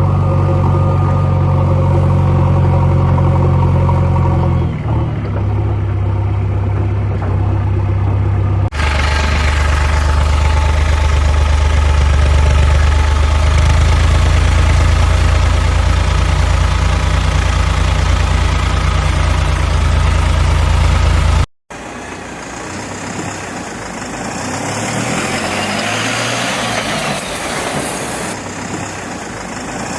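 Tractor diesel engine running steadily with a low hum, heard in several clips joined by abrupt cuts. In the last part the engine note rises and falls repeatedly.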